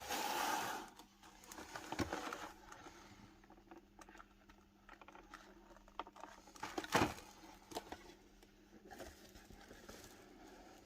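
Faint, scattered handling sounds. There is a brief rustle at the start, then light taps and crinkles, with a sharper knock about seven seconds in.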